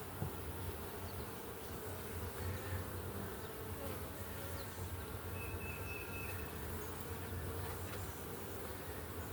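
A large colony of honey bees buzzing in a steady hum from an opened hive during an inspection.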